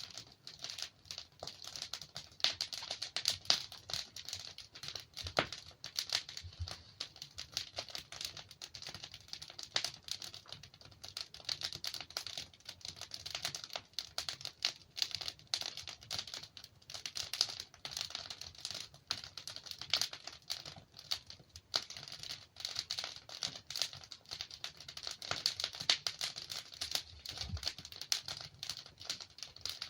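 Wood logs burning in a fireplace, crackling steadily with a dense run of small snaps and the odd louder pop.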